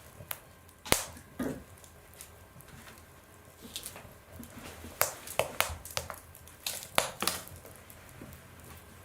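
Wood fire crackling in a stove: sharp pops and snaps over a faint hiss, a few about a second in and a quicker run of them from about five to seven and a half seconds in.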